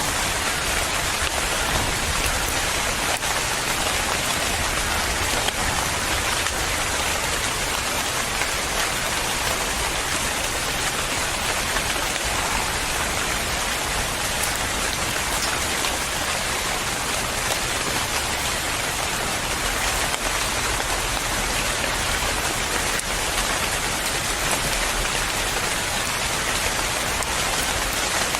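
Steady rain falling and pattering on a surface, an even hiss without thunder or other events.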